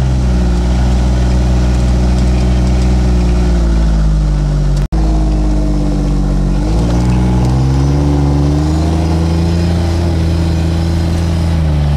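Utility vehicle's engine running as it drives, its pitch falling as it slows about four seconds in, then rising again as it speeds up; the sound cuts out for an instant just before the slowdown ends.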